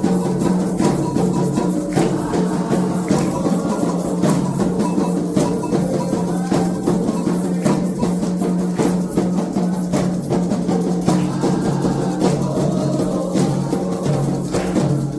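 Percussion music with drums, rattles and sharp clicking strikes in a steady rhythm over held low notes. It cuts off abruptly at the very end.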